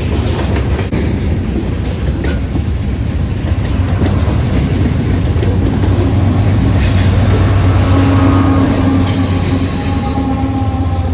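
Freight train rolling past: a steady heavy rumble of rail cars on the track, with a faint wheel squeal in the second half.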